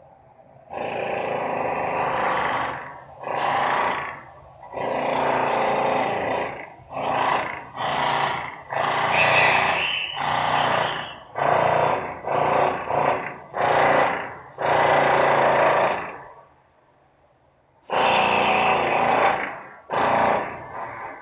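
Loud industrial machine noise in repeated bursts lasting a second or two each, with a pause of about two seconds near the end.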